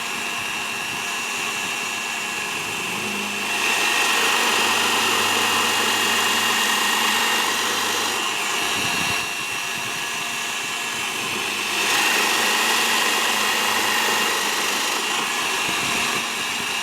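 Electric wood router running with a steady high whine, getting louder twice as it cuts into the wood, clearing out the bulk of a recess.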